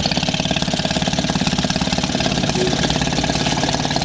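Maytag 72 twin-cylinder two-stroke engine running steadily under load with a rapid, even firing beat, belt-driving a washing machine. It is running slow, at about 1100 rpm, some 550 rpm under its proper speed.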